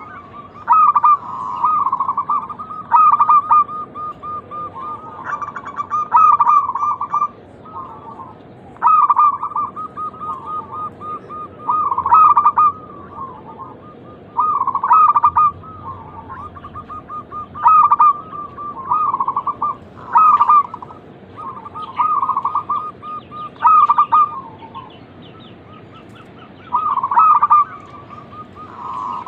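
Zebra doves (perkutut) cooing: repeated phrases of quick, rolling coos, a new phrase every two to three seconds.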